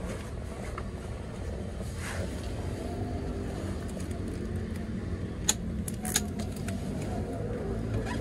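Avanza Transmover engine idling steadily, heard from inside the cabin. About two seconds in there is a brief scrape from a part by the steering wheel that rubs as it moves, followed later by two sharp clicks.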